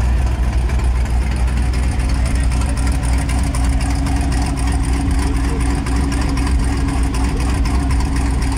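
Car engine running steadily, with a faint steady hum coming in over it after the middle.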